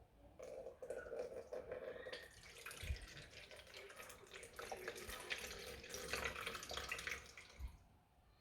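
Water running from a tap into a sink and splashing, with small clicks and knocks; it starts just after the beginning and stops near the end.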